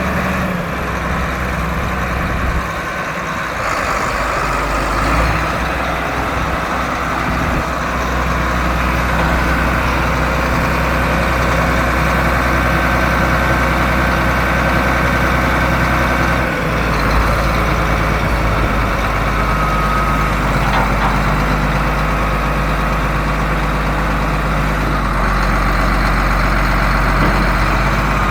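1976 John Deere 8630 four-wheel-drive tractor's turbocharged six-cylinder diesel engine running steadily at idle, its note shifting a little over halfway through.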